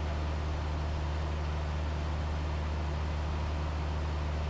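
Cessna 172's four-cylinder Lycoming engine and propeller droning steadily in cruise, heard from inside the cabin as a constant low hum over airflow noise.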